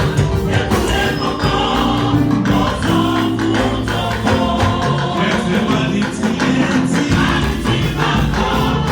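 Church choir singing a gospel anthem over instruments with a steady beat.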